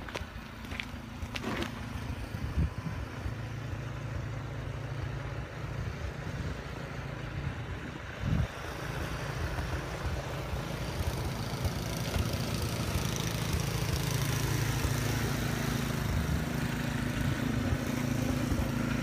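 An engine running steadily, with a rushing hiss that grows louder over the second half.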